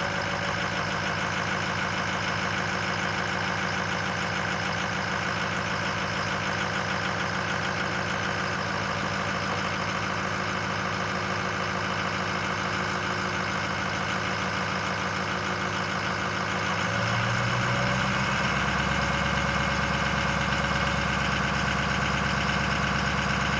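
2005 Ford 6.0 Power Stroke V8 turbo diesel idling after a cold start. About 17 seconds in, the engine speed steps up and it gets louder and deeper as the cold-weather high idle kicks in.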